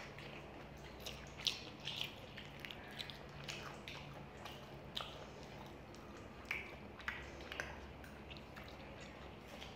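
Close-miked eating sounds of spicy noodles and saucy fried chicken: wet chewing and smacking, heard as irregular short clicks, a few of them louder than the rest.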